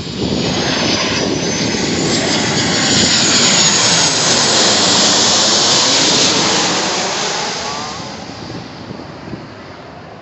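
Jet airliner passing low overhead on landing approach, likely a Southwest Boeing 737: engine roar swells to a peak about midway, then fades away over the last few seconds, with a high engine whine sliding in pitch as it goes by.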